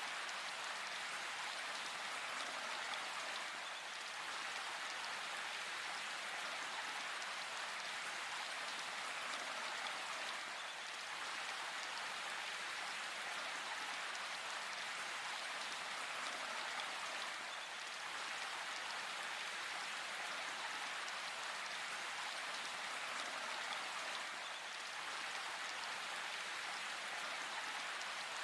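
Steady rain falling in a forest: a dense, even hiss of countless drops, with slight dips in level every several seconds.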